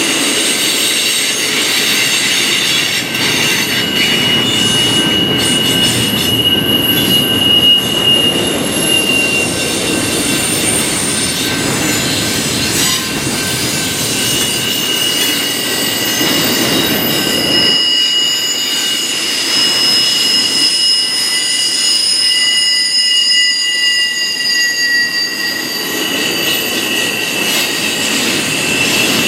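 Freight train cars rolling past at steady loudness, with several high-pitched wheel squeals that come and go over the rumble of the wheels on the rails.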